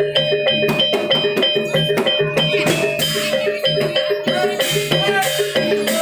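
Javanese gamelan accompaniment for a barong dance: struck metallophones play a fast repeating figure over drums and percussion.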